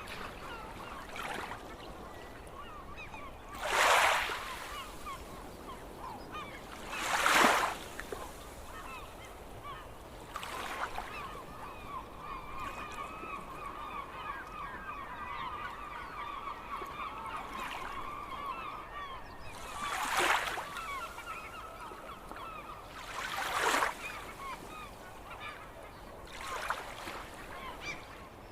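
A flock of seagulls calling over and over. Five times, a louder swell of rushing noise lasting about a second rises over the calls.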